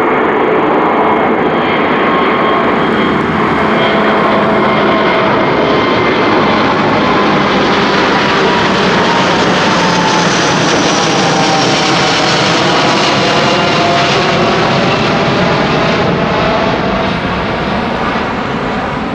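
Airbus A330-900's Rolls-Royce Trent 7000 turbofans at takeoff thrust, a loud, steady jet roar with whining tones that slowly fall in pitch about halfway through as the climbing airliner passes, easing slightly near the end.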